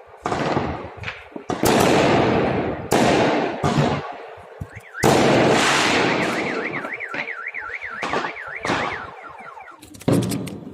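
Fireworks shells bursting, five loud bangs each followed by a long rolling echo. From about halfway a car alarm warbles up and down about three times a second for several seconds, then stops, and near the end comes a quick run of sharp crackles.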